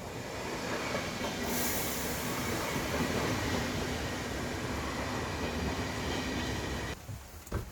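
Train running on rails: a steady rumble and hiss with a faint sustained tone, and a brief high hiss about a second and a half in. It cuts off abruptly about seven seconds in.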